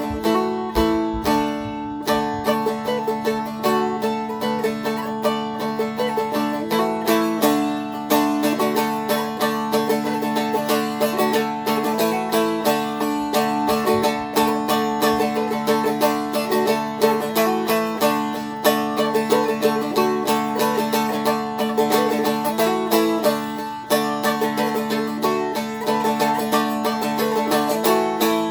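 Seagull Merlin M4, a four-string dulcimer-style strumstick, played in D with a pick: a quick, lilting melody strummed in full chords over ringing drone strings.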